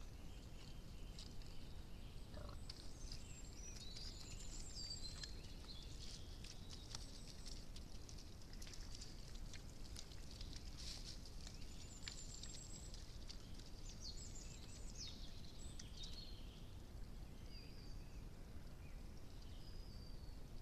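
Small birds singing faintly, several short chirps and quick trills, over the steady hiss of a trail camera's microphone.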